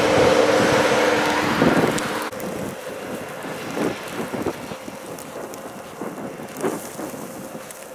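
Blizzard wind blasting the microphone over a steady low engine hum, which cuts off suddenly about two seconds in. After that, quieter wind with scattered soft crunches of footsteps in deep snow.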